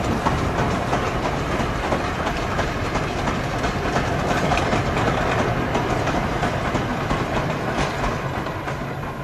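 Model train running along the track, its wheels clicking rapidly over the rail joints with a steady running rumble. It starts to fade near the end as the train moves away.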